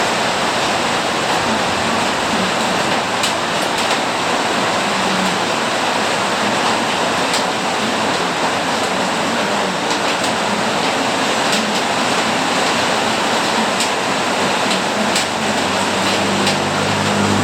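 Heavy rain falling steadily, a dense even hiss with a few sharper drop impacts now and then. Near the end a vehicle's engine hum comes in underneath.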